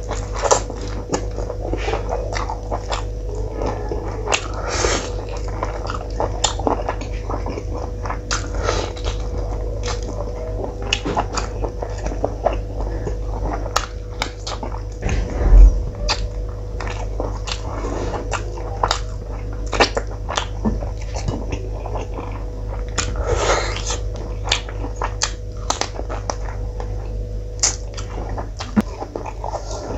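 Close-miked chewing and lip-smacking as a mouthful of rice and curry is eaten by hand: many irregular wet smacks and clicks. A steady low hum runs underneath, and there is one heavy low thump about halfway through.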